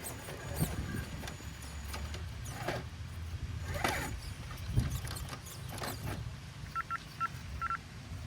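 Small electric RC rock crawler running slowly: a low hum of its motor and drivetrain, with scattered knocks and scrapes as it works over the ground. Near the end comes a quick run of short electronic beeps.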